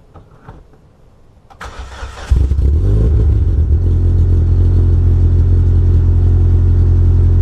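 Cold start of a 2005 Chevrolet Cobalt SS's supercharged 2.0L LSJ four-cylinder, breathing through a long-tube header, catless downpipe and 2.5-inch ZZP exhaust: the starter cranks briefly and the engine catches about two seconds in, then settles into a loud, steady idle with a deep tone.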